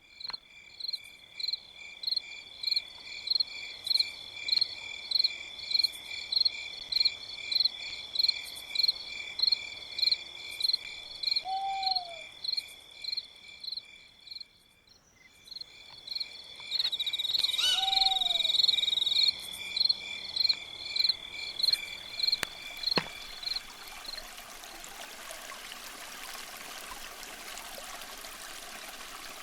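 A rhythmic chorus of calling animals: high chirps about two a second over a steady high trill, pausing briefly midway, with two low falling calls. Near the end it gives way to the steady rush of a stream.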